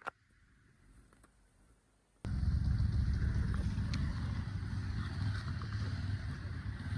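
A single click, then about two seconds in a car engine comes in abruptly and runs steadily with a low rumble.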